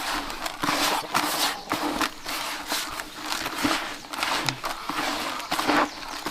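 A series of irregular knocks and scrapes, roughly two or three a second.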